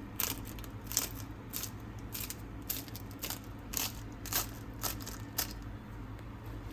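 Crisp baked layers of cheese börek crunching and crackling, about ten sharp crunches at uneven intervals.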